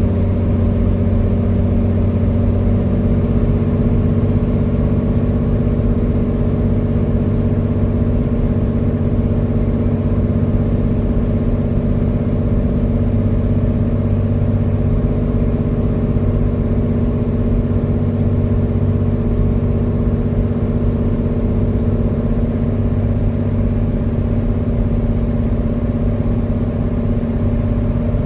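Cessna 206 Stationair's six-cylinder piston engine and propeller running at a steady power setting, an even drone that holds constant without any change in pitch.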